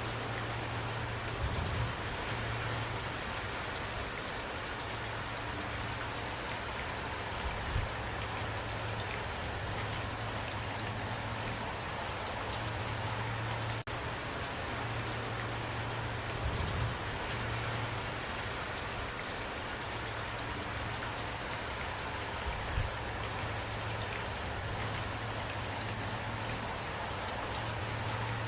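Steady rain falling, an even hiss of drops with a steady low rumble beneath, broken by a few brief low thumps.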